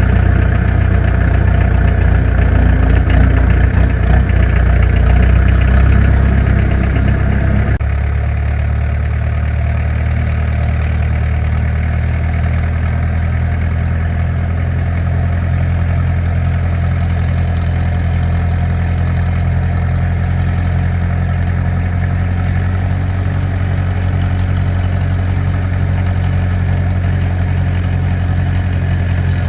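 Tractor engine running fast, then throttled back abruptly about eight seconds in, settling to a steady lower idle.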